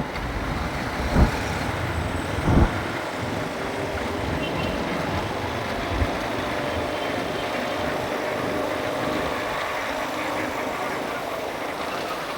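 Steady motorbike and road traffic noise of a ride through city streets, with two short low thumps in the first three seconds.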